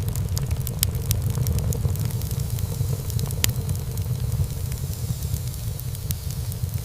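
Wood fire burning in a fireplace: a steady low rumble of flames with frequent sharp crackles and pops, one louder pop about three and a half seconds in.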